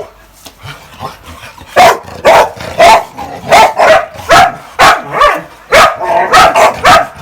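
A dog barking loudly in a steady run of about ten barks, roughly two a second, starting about two seconds in.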